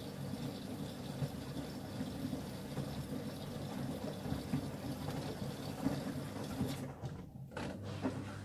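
Miele W1 WKF 130 WPS PowerWash washing machine mid-cycle, with water running and sloshing inside and a low motor hum. About seven seconds in the water noise drops away and a steadier hum carries on.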